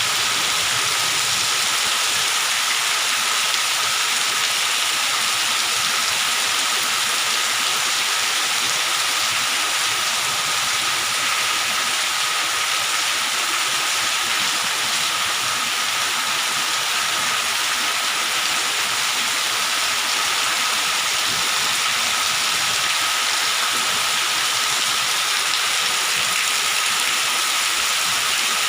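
Heavy rain pouring steadily, an even hiss of rain on surfaces with no let-up, with a faint steady high tone underneath.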